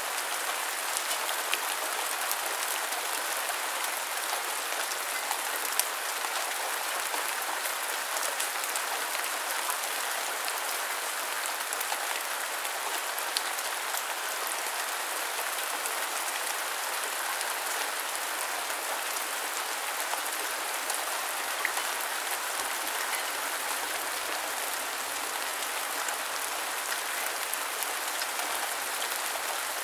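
Steady, even rain falling, with scattered close drops ticking through it and a few slightly louder drop hits. No thunder.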